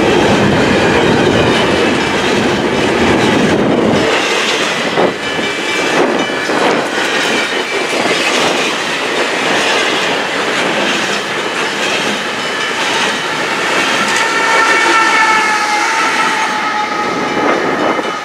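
Double-stack intermodal well cars of a long freight train rolling past, steel wheels clattering over the rail joints. The deep rumble drops away about four seconds in, and thin high squeals from the wheels sound near the end.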